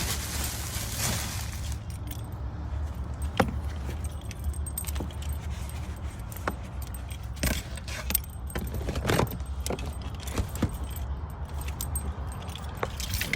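Scattered clicks, clinks and rattles of small objects being handled, jangling like keys, over a steady low hum.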